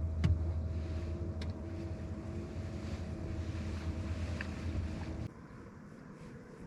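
A boat's motor running with a steady low hum, with faint knocks early on. The hum cuts off suddenly about five seconds in.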